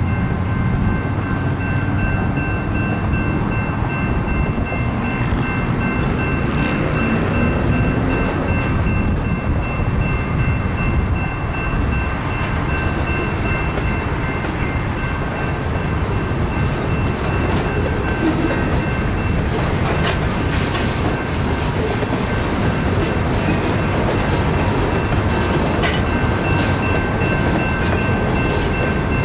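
BNSF freight cars (tank car, covered hopper, flatcars, boxcar) rolling past on a shove move, steel wheels rumbling and clicking over the rail joints. Several steady high ringing tones sound over the rumble.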